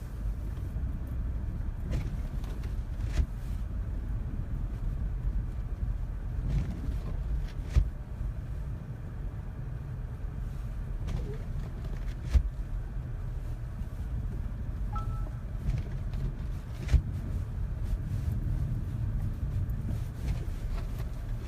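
Car cabin noise while driving on a snow-covered road: a steady low rumble of engine and tyres, broken by a few sharp knocks. A faint short beep sounds about fifteen seconds in.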